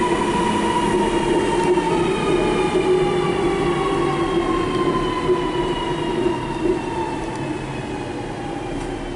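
Sydney Metro driverless electric train at the platform, its traction motors whining over a steady rumble. The whine falls slowly in pitch and the sound eases off as the train slows.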